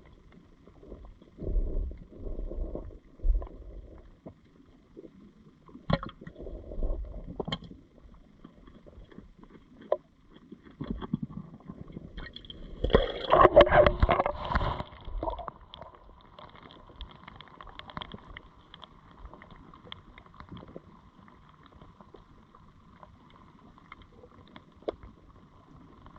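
Muffled water sloshing and gurgling around a GoPro camera under water, coming in several bursts, the loudest about halfway through. A faint steady hum follows to the end.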